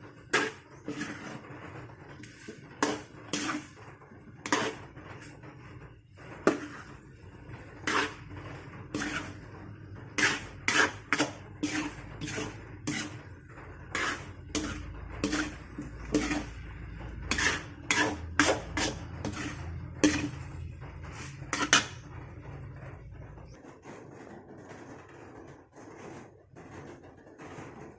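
Kitchen utensils and cookware clattering and knocking: irregular sharp clinks and taps of metal on pots and dishes. A low hum runs underneath through the middle and stops a few seconds before the end.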